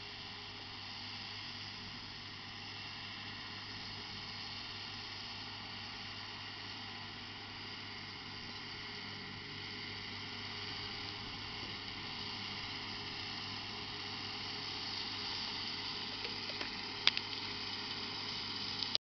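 Massey Ferguson 6480 tractor running with a Spearhead topper: a steady mechanical drone with a low engine hum and a higher whine, slowly growing louder. There is a sharp click near the end, and then the sound cuts off suddenly.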